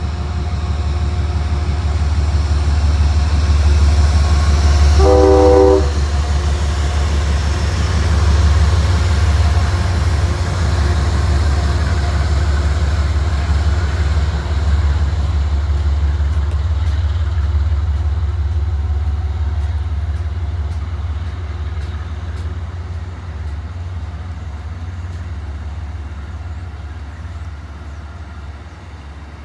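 Amtrak passenger train passing slowly: a low rumble that is loudest about five seconds in, with a brief horn note at that point, then the stainless-steel passenger cars roll by and the rumble slowly fades.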